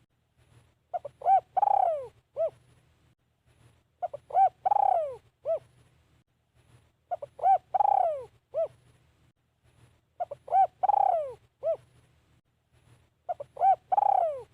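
Spotted dove cooing, the song that Thai dove keepers use for decoy calling. It repeats the same phrase five times, about every three seconds: two or three short notes, a long falling coo, then one short closing note.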